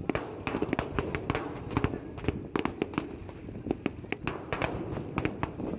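Fireworks going off in a rapid, irregular string of sharp bangs and cracks, several a second, over a continuous low rumble.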